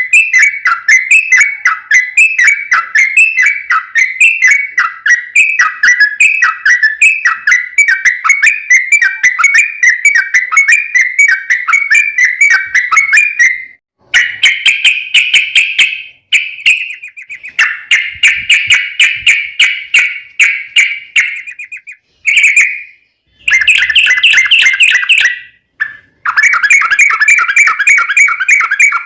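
Yellow-vented bulbul (trucukan) singing long, rapid chattering runs of notes, several stretches broken by short pauses from the middle on.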